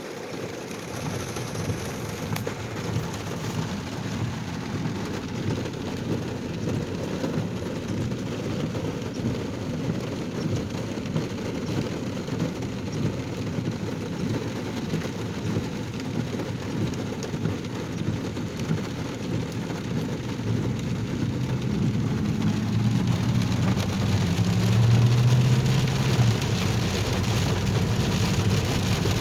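Steady rain and wet-road noise around a moving car, an even hiss throughout. About three-quarters of the way through, a low engine hum comes up and the sound grows slightly louder.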